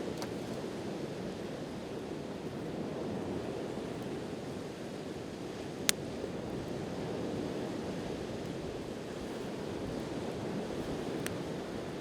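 Steady wash of sea waves, with a campfire's burning wood giving a sharp pop about six seconds in and fainter pops near the start and near the end.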